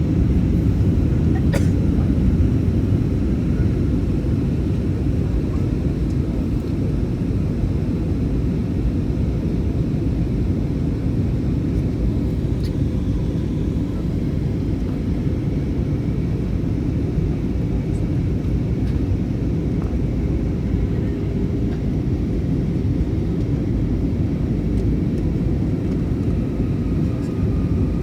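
Steady low rumble of jet airliner cabin noise, engines and airflow, as heard from a passenger seat on approach to landing, with a few faint ticks.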